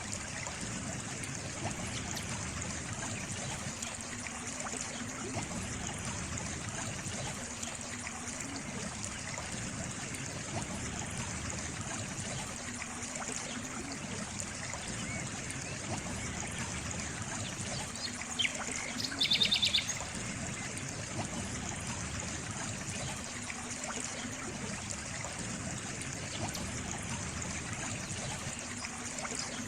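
Water trickling and running steadily, like a small stream. About two-thirds of the way through, a short, high chirping call, most likely a bird, is briefly the loudest sound.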